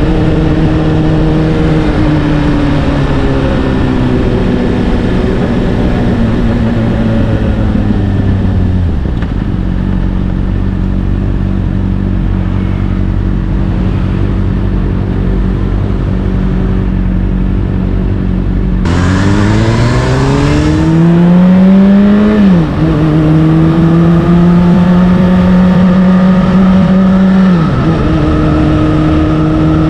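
Honda CBR600RR inline-four through an Akrapovic exhaust, heard from on board. The engine note falls for about nine seconds and holds steady and low for about ten. It then rises sharply as the throttle opens, drops at a gear change a few seconds later, and drops again at another change near the end.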